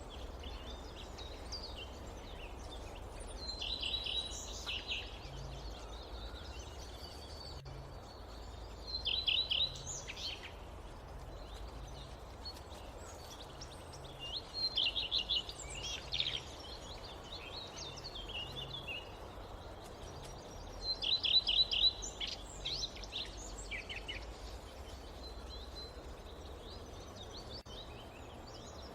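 Forest birds singing, one song of a short run of quick, bright notes coming back about every five to six seconds, with fainter chirps between. Under it a steady low background noise.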